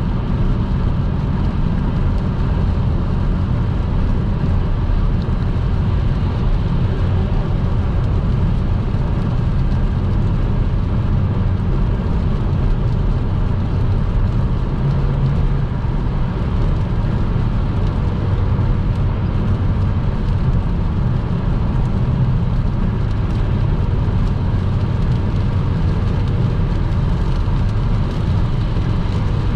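Steady road noise of a car cruising at motorway speed on a rain-wet road: an even, deep rumble of tyres and engine.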